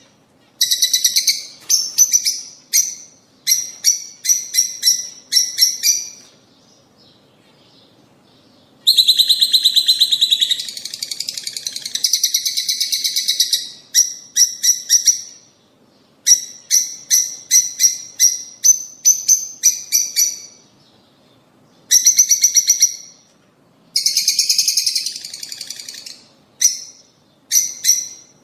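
Lovebirds chirping in quick runs of sharp, high calls, broken by short pauses, with two longer stretches of dense, continuous chattering about a third and halfway through.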